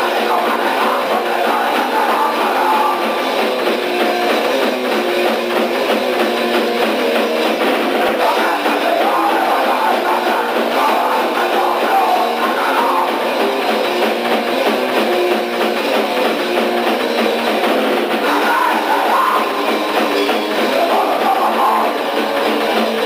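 D-beat raw punk played by a band on guitar and drum kit, a steady, dense wall of sound. The recording is thin, with almost no bass.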